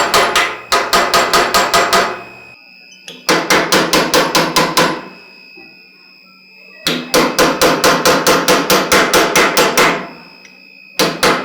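Blacksmith's hand hammer striking a fuller held against the steel skull on the anvil, the steel at black heat. The blows come in four quick runs of about four to five a second, with short pauses between the runs.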